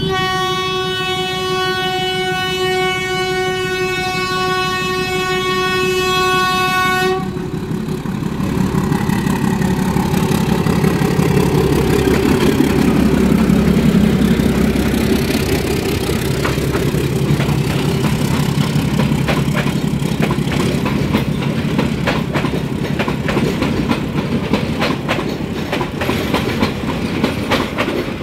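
Diesel locomotive's horn sounding one long steady blast that cuts off about seven seconds in. Then the locomotive's engine rumbles past close by, loudest a few seconds later, and the passenger coaches roll past with a steady clickety-clack of wheels over the rail joints.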